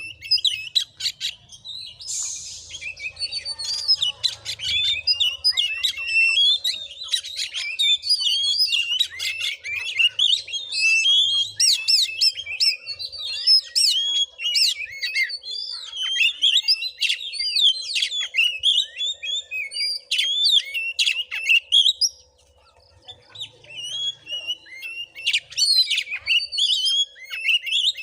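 Oriental magpie-robin (kacer) in full, continuous song: a fast, varied stream of sweet whistles, trills and chattering notes, with a brief pause about two-thirds of the way through.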